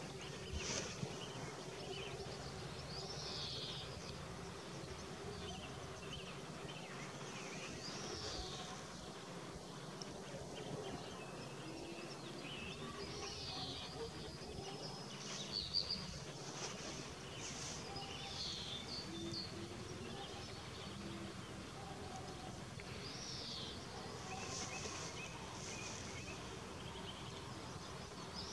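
Songbirds calling outdoors: a short downward-sliding call repeated about every five seconds, with scattered chirps, over a faint steady background rumble.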